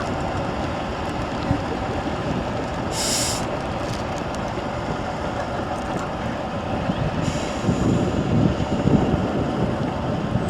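Heavy off-road trial truck's diesel engine running steadily, with a short burst of hissing air about three seconds in and a fainter hiss near the end. The engine grows louder over the last couple of seconds.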